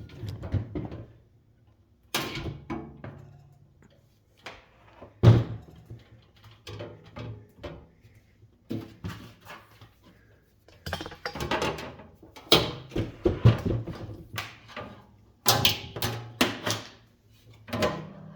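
Metal parts of a box fan being handled during disassembly: irregular knocks, clicks and rattles, the loudest knock about five seconds in.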